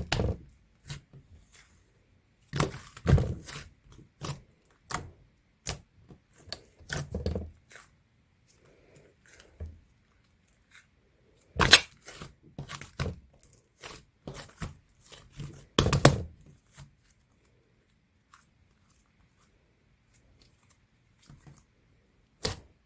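Hands squishing and stretching thick white clay slime, making sticky clicks, pops and crackly tearing sounds in short bursts with quiet gaps. It goes mostly quiet for the last few seconds.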